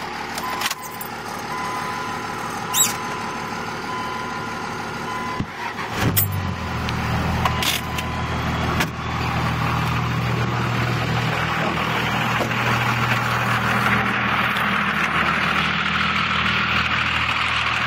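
Cummins diesel engine running at idle after a cold start in sub-zero weather, with a few sharp clicks in the first seconds. About six seconds in, a deeper, louder engine note comes in and holds steady.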